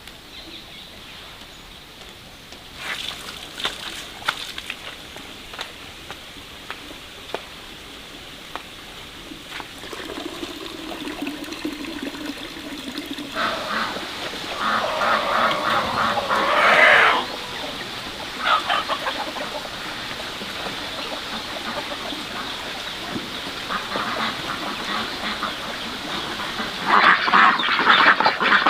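Ducks quacking in repeated bouts, loudest about halfway through and again near the end.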